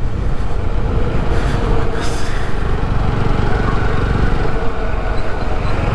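Steady ride-along sound of a TVS Apache RTR 160 4V motorcycle cruising: wind rumble on the helmet microphone over the single-cylinder engine's running, with a brief hiss about two seconds in.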